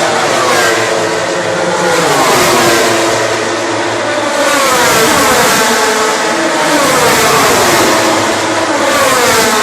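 Racing motorcycles going past one after another at full speed, their engine note dropping in pitch as each one goes by.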